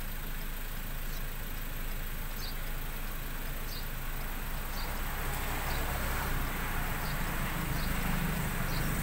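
Car engine running at low speed, heard from inside the cabin: a steady low hum that grows a little louder in the second half. Faint short high chirps recur about once a second over it.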